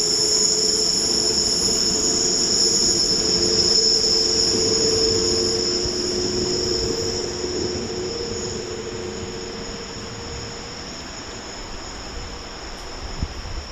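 Train in the station with a steady, high-pitched wheel-on-rail squeal over a lower running hum. The hum fades and drops away in the last few seconds, as if the train is moving off.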